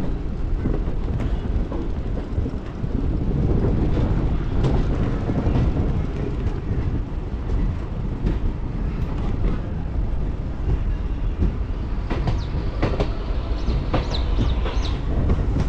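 MEMU electric train rolling slowly into a station, heard from on board: a steady low rumble with wheels clattering over rail joints and points, and a run of sharper clicks and metallic squeals near the end.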